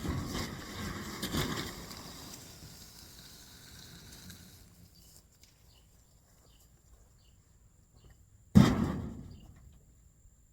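Rustling and handling noise that swells twice and then dies away, followed some seconds later by one sharp, loud bang or knock.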